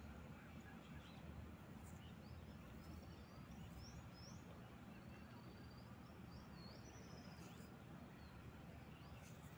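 Near silence: a faint low background hum with birds chirping in the distance, in small clusters of quick rising chirps.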